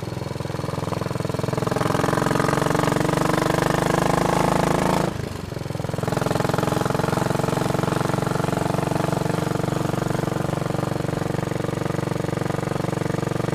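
Royal Enfield Bullet Machismo 500's single-cylinder four-stroke engine under way, getting louder as it pulls in the first couple of seconds. The engine note drops briefly about five seconds in, then runs on steadily.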